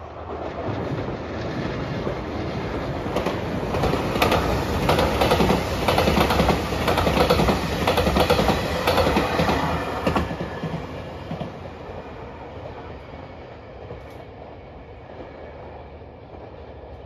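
JR Shikoku 8600 series electric limited express train passing close by, its wheels clattering rhythmically over the rail joints. The sound builds, is loudest through the middle, then fades away after about ten seconds as the train recedes.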